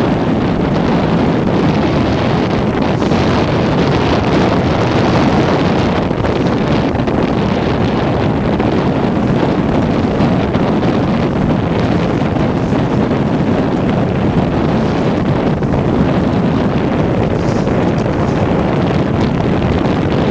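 Steady, loud wind noise buffeting the microphone on a sailboat under way in a fresh breeze.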